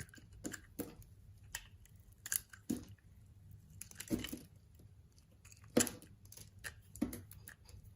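Bar of soap being cut with a knife: a string of crisp, irregular crunches and scrapes, one somewhat longer scrape about four seconds in and the loudest crunch near six seconds.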